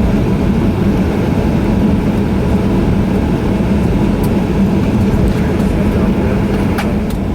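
Steady hum and rumble heard inside the cabin of a Boeing 737-900 taxiing on the ground, its CFM56 jet engines at low taxi thrust. A couple of faint clicks come near the end.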